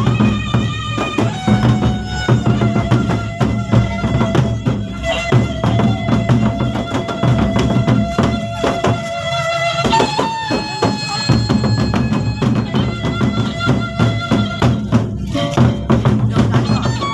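A Gendang Beleq ensemble playing: large double-headed Sasak drums beat a dense, fast rhythm with clashing cymbals, over a long held melody line that shifts pitch a few times.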